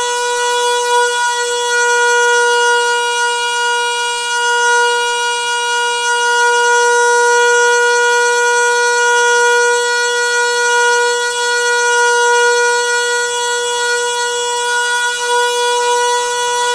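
Noisy water pipe singing: a loud, steady droning tone with many overtones, holding one pitch and swelling and easing slightly in strength.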